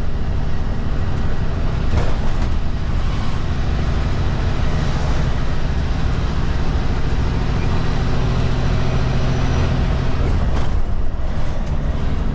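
Kenworth K200 cab-over truck's Cummins diesel engine running steadily at highway cruise, heard inside the cab with constant road noise. A sharp knock comes about two seconds in and another near the end.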